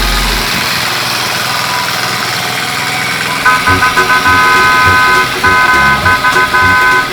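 A vehicle horn honking in quick, choppy repeated blasts from about halfway in, over a steady noisy background.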